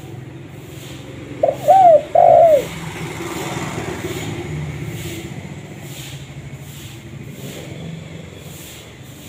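Spotted dove cooing: a brief note, then two longer arched coos, about a second and a half in. They are followed by a steady low rumbling noise for the rest of the stretch.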